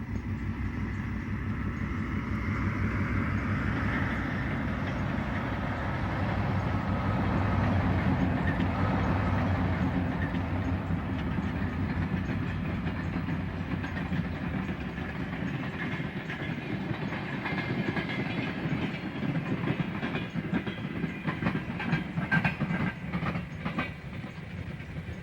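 Diesel locomotive rumbling past with its train, its engine note swelling to its loudest about a third of the way in. Near the end, rapid clicks of wheels crossing rail joints take over.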